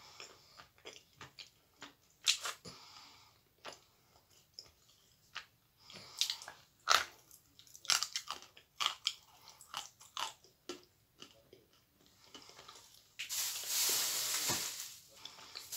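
Someone biting and chewing a hard chunk of white edible clay: a string of short, sharp, dry crunches at an uneven pace. Near the end comes a louder hissing rustle lasting about a second and a half.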